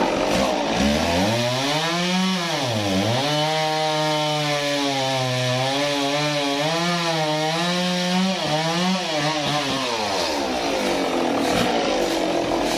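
Sawmill saw cutting through a log: a loud pitched whine that dips sharply about three seconds in, wavers as the cut goes on, and fades out near ten seconds, over steady cutting noise.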